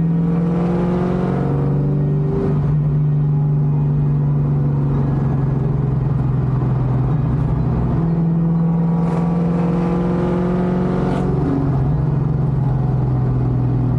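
1979 Pontiac Trans Am's V8 engine and exhaust heard from inside the cabin while driving, running steadily under load with road noise. The engine note shifts in pitch a few times as the revs change.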